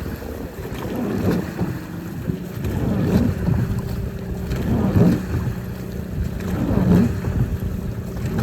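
A boat's engine running with a steady low hum. Over it a low rushing noise swells and fades about every two seconds, with wind on the microphone.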